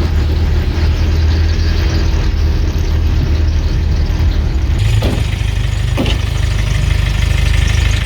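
Car engine and road noise heard from inside the moving car, a steady low hum. Two short squeaks come about five and six seconds in.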